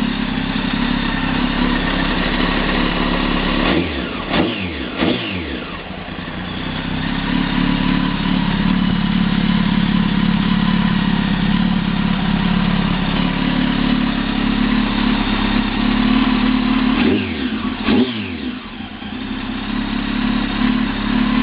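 2005 Kawasaki ZX-10R inline-four with a Muzzy aftermarket exhaust idling steadily, blipped up and back down in short revs about four seconds in and again about seventeen seconds in.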